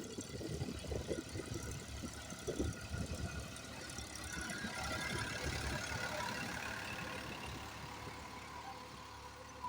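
A vehicle engine running, with uneven low rumbling in the first few seconds before it settles into a steadier hum.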